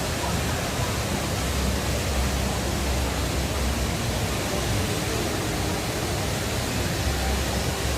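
Steady rushing of falling water from the Rain Vortex, the large indoor waterfall at Jewel Changi Airport, as an even, unbroken noise.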